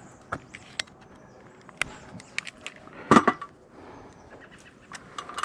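Hands handling and measuring off a length of strap material: scattered small clicks and taps, with a louder clatter about three seconds in.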